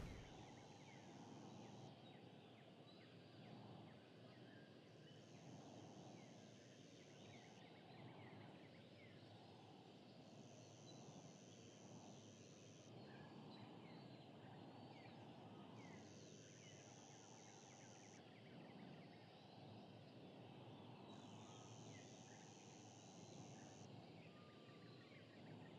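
Faint outdoor ambience: a high buzz that comes in spells of about two and a half seconds, roughly every five seconds, over a low steady rumble and scattered faint chirps.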